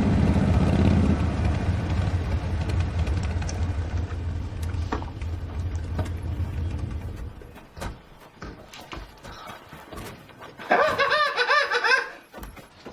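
A vehicle engine running with a steady low rumble that fades away over several seconds. Near the end comes a brief burst of laughter.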